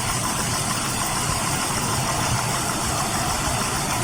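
Dodge Charger V6 engine running steadily at idle with a misfire on cylinder number 6, the engine running rough.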